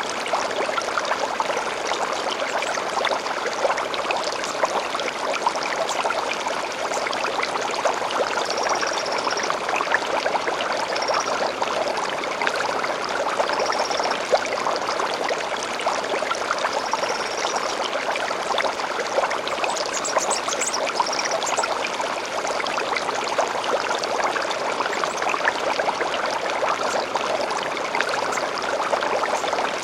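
Gentle stream flowing steadily, with short high birdsong phrases every few seconds.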